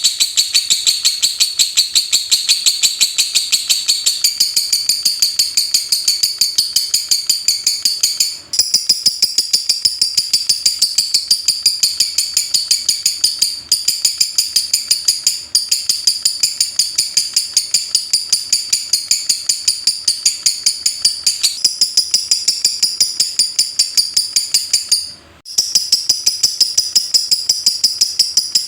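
Lovebird 'ngetik' chatter: a long, fast run of sharp high chirps, about five a second, broken by a few short pauses.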